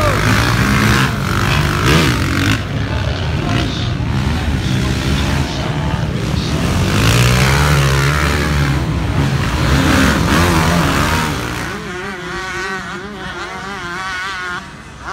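Motocross bike engines revving hard, the pitch rising and falling as they race. About twelve seconds in it drops to a quieter buzzing engine whose pitch wavers up and down.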